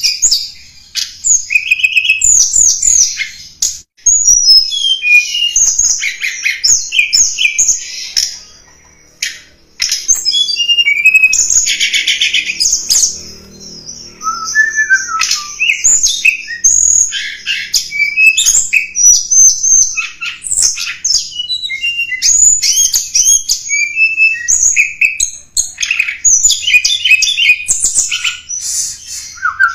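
Tledekan gunung flowerpecker calling in rapid, high, thin chips and short twittering trills, almost without pause. This is a lure call (suara pikat) used to draw in wild flowerpeckers.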